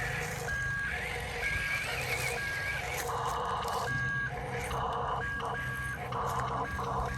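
A vehicle reversing alarm beeping about once a second over a steady low engine-like hum, with a rougher intermittent buzzing joining in over the second half.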